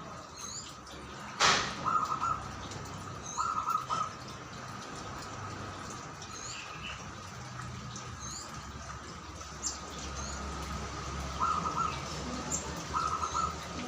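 Zebra dove (perkutut) giving short bursts of rapid staccato cooing, four times, over small high chirps from another bird. A sharp knock about a second and a half in is the loudest sound.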